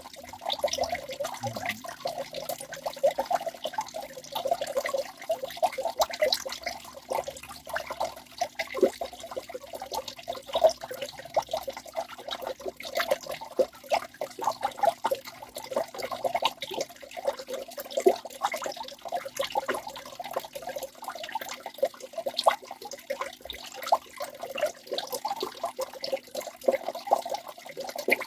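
Waterfall water falling and splashing without pause: a dense, steady splashing made of many small irregular spatters.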